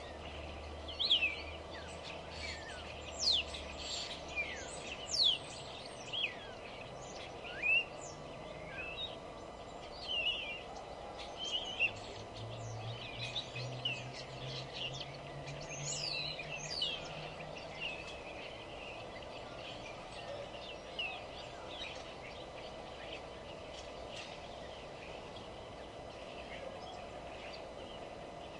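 Wild birds chirping and singing in short, quick notes that mostly sweep down in pitch, thick over the first two-thirds and thinning out near the end, over a steady low background hum.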